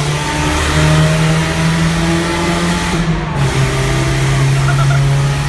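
Car engine running steadily at near-constant revs, with a brief drop about three seconds in.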